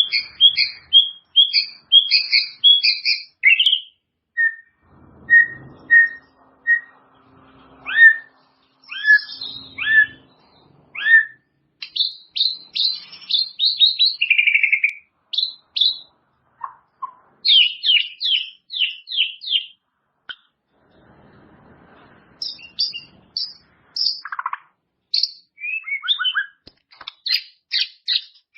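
White-rumped shama singing a long, varied song of clear whistled notes, repeated several times in a row, and quick chattering trills, broken by a short pause about two-thirds of the way through.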